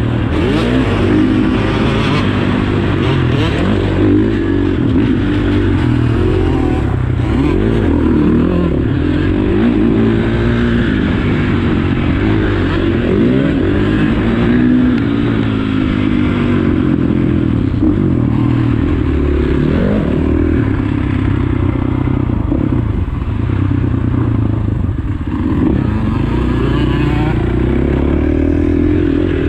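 Dirt bike engine revving up and down over and over as it is ridden, its pitch rising and falling every second or two.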